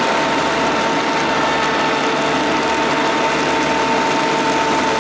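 Madvac ride-on vacuum running on its Kubota D1105 three-cylinder diesel, a dense steady machine noise with a steady high whine over it.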